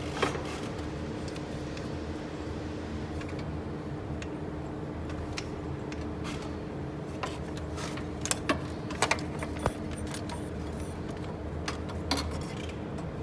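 Scattered sharp metallic clicks and clinks of hand tools and small engine parts being handled during engine disassembly, several in quick succession around the middle, over a steady low hum.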